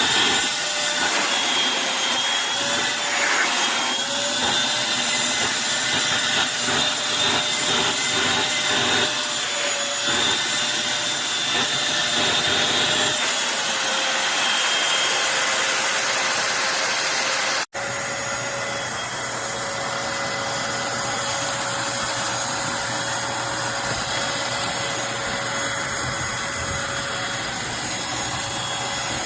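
Eureka Blaze cordless stick vacuum running on a high-pile area rug, its motor whine wavering in pitch as it works the carpet. About 18 seconds in it breaks off for an instant, then carries on at a steadier pitch and slightly lower level.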